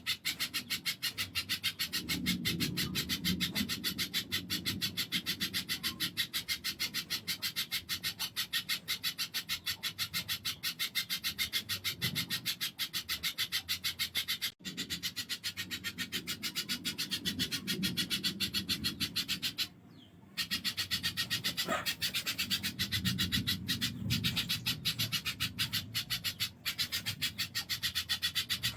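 Spiderhunter calling: a fast, evenly paced run of sharp high ticks, about seven or eight a second. Low rubbing noise swells in and out, and the ticking breaks off briefly about two-thirds of the way through.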